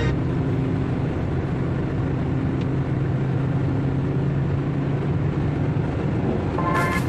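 Steady low mechanical drone of a running motor, with a continuous low hum.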